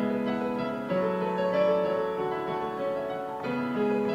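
Piano music: slow held chords, changing about a second in and again near the end, with no singing.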